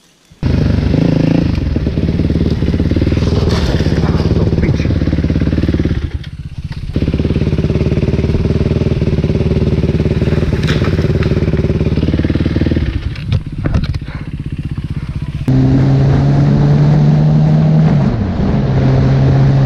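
Motorcycle engine running at riding revs. It drops back briefly twice, about six and thirteen seconds in, then about fifteen seconds in switches abruptly to a louder, steadier drone.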